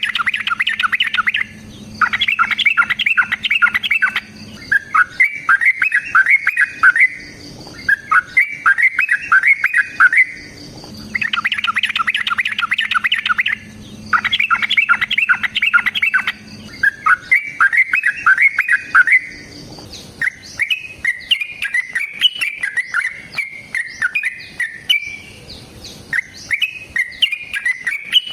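Yellow-vented bulbul (trucukan) singing loud, rapid, bubbling chattering phrases, each about two to three seconds long with short gaps, in the long-run 'ropel' style used as a lure call. The same run of phrases repeats about ten seconds later, and after that the song breaks into looser, scattered chirps.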